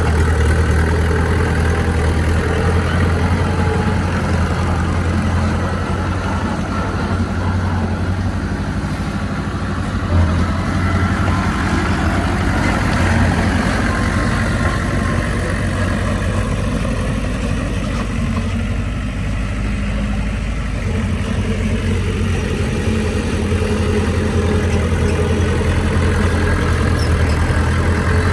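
Bulldozer's heavy diesel engine running steadily with a deep, even hum, easing and picking up a little as it works, with one short knock about ten seconds in.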